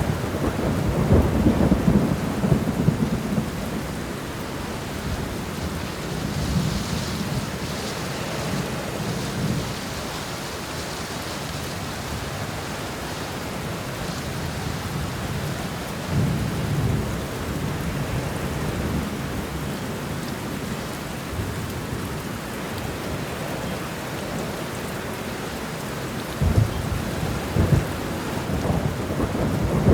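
Steady rain with low rolling thunder, the rumbles swelling in the first few seconds, briefly again around the middle, and near the end.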